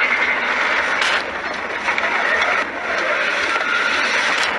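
Loud, steady rushing noise of a moving vehicle, with a sharp click about a second in and another near the end.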